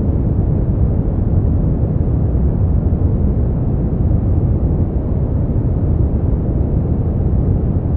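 Steady brown noise: a deep, smooth hiss, strongest in the bass and dying away above the midrange, unchanging throughout.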